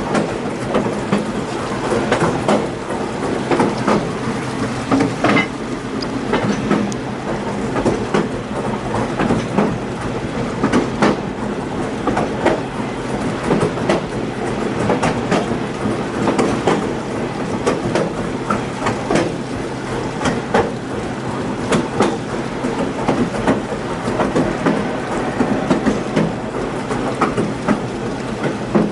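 Passenger railroad cars rolling downgrade at over 20 mph: a steady rumble of wheels on rail with frequent sharp clacks and knocks as the wheels cross rail joints.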